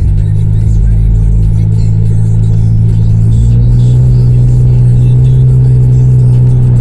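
Honda CR-V engine running through an exhaust with the resonator and muffler removed: a loud, steady drone. It steps up in pitch right at the beginning and then climbs slowly.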